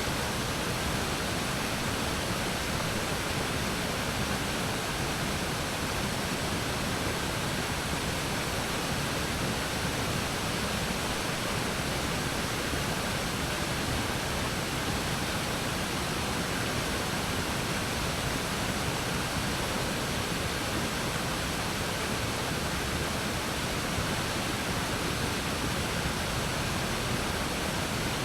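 Waterfall: water falling and splashing, a steady, even rush with no breaks.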